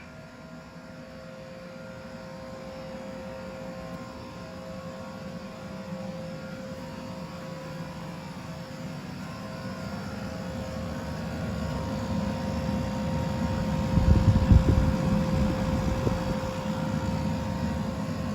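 Heat pump water heater running: a steady drone of its compressor and fan with a couple of steady tones, growing louder as the microphone approaches the unit. A brief low rumble comes about fourteen seconds in.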